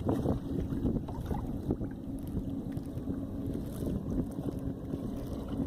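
Wind buffeting a phone's microphone, a steady low rumble, with a few faint knocks.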